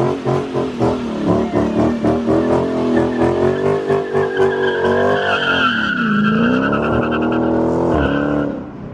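Car engine revving hard with a pulsing, uneven note, joined from about five seconds in by tyres squealing; the engine pitch dips and climbs back about six seconds in.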